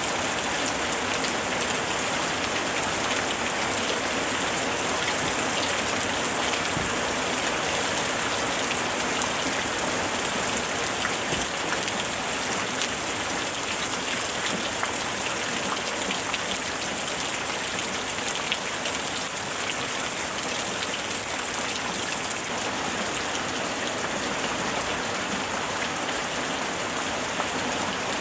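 Steady rain falling and pattering on surfaces, a dense even hiss scattered with individual drop ticks.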